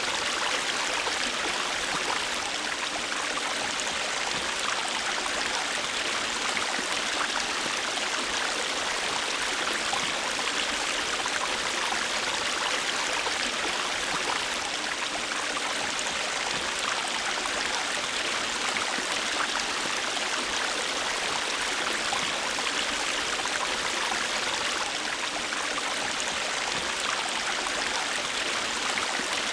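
A river or stream flowing steadily over rocks: a continuous, even rushing and splashing of water, with no changes.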